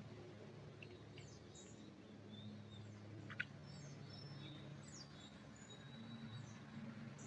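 Faint, scattered bird chirps and short falling whistles over a low steady background hum, with one sharp tick about three and a half seconds in.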